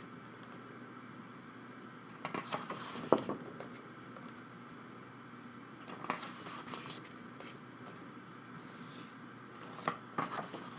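Heavy, thick photobook pages being turned by hand: several short papery swishes a few seconds apart, with quiet room tone between them.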